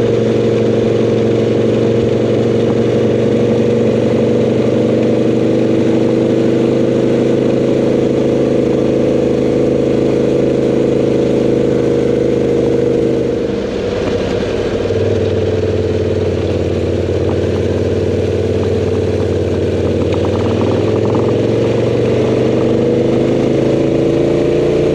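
Motorcycle engine running at a steady road cruise, heard from a camera on the bike. About fourteen seconds in the engine note dips and drops to a lower pitch, then climbs slowly again near the end.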